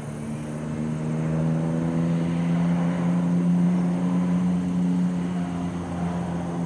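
A motor vehicle passing by below, its engine hum swelling to a peak about halfway through and then fading.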